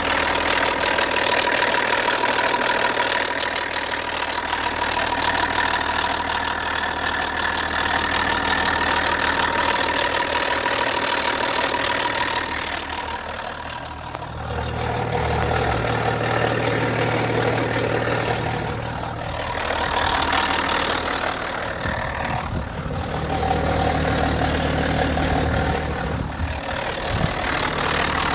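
BMW E90 325d's N57 straight-six diesel engine idling with a loud ticking, which the owner wonders may be a lifter problem.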